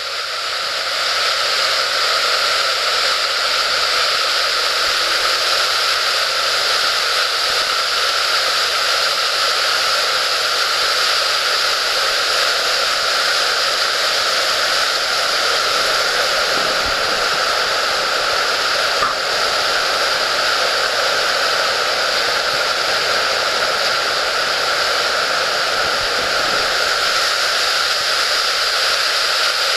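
Floodwater pouring through the open gates of the Nango Araizeki weir on the Seta River, running high after a typhoon: a loud, steady rush of water.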